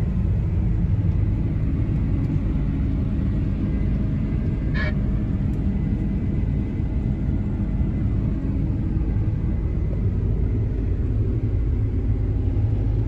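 Case tractor's diesel engine running steadily with a low rumble while pulling a grain cart. A brief high squeak sounds about five seconds in.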